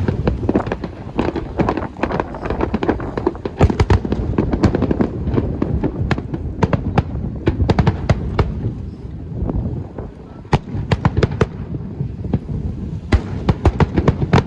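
Aerial fireworks bursting: many sharp bangs and crackles, often in quick clusters, over a continuous low rumble, easing off about ten seconds in before a fresh cluster of bangs near the end.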